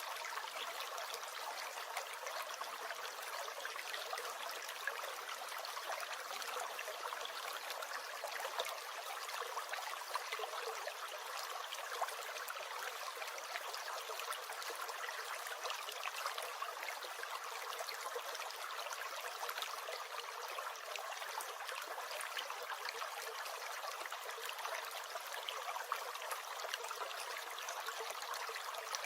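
Small stream gurgling and trickling over stones, a steady babble of water with many tiny splashes.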